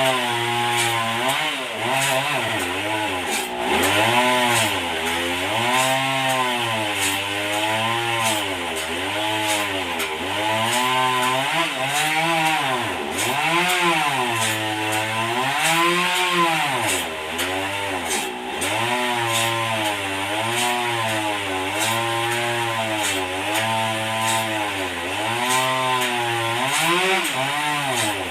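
Engine-driven sawmill cutting through a trembesi (rain tree) log. The engine's pitch keeps dipping and recovering every second or two as the blade takes the load, under a steady rasp of sawing wood.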